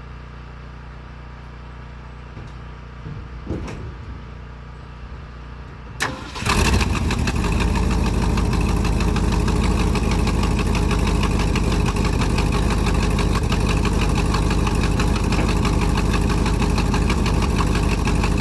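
1972 Ford F-250 pickup's engine: a low, steady hum at first, then a sharp click about six seconds in, and just after it the engine comes up loud and keeps running steadily. The owner guesses the carburetor is clogged and blames it for the truck's poor starting and running.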